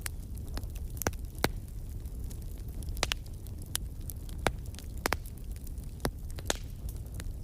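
Wood fire burning in a fireplace: a steady low rumble with sharp crackling pops about once a second and fainter ticks between them.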